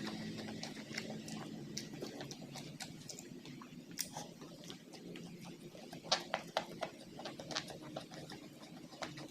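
Close-up eating sounds: irregular wet chewing and mouth smacks, with a cluster of sharper clicks about six seconds in. A faint steady low hum lies beneath them.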